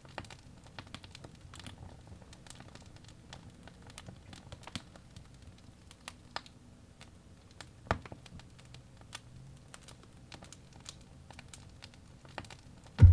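Campfire crackling: irregular sharp pops and snaps, one louder pop about eight seconds in, over a faint low rumble.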